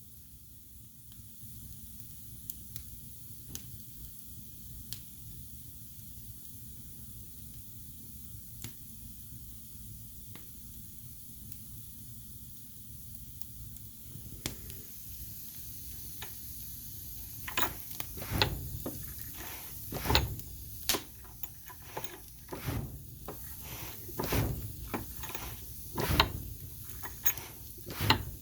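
Wood fire burning in a fireplace: a low rumble with a few scattered sharp pops, turning past the halfway mark into busier crackling with frequent loud pops.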